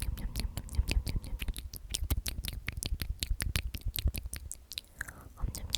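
Rapid, crisp clicks close to the microphone, several a second, over low handling rumble, with a short lull near the end.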